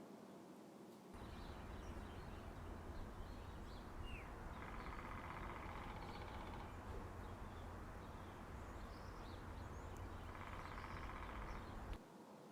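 Woodpecker drumming: two rapid, even rolls on wood, the first about two seconds long and the second about a second and a half, near the end. Short bird chirps and a steady low outdoor rumble run underneath.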